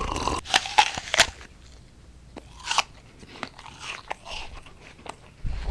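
Irregular clicks and crackles, denser in the first second or so, then sparser.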